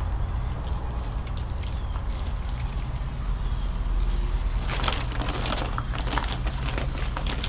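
Bird seed rustling and rattling as it is put into a bird feeder by hand, thickest from about five to seven seconds in, over a steady low rumble.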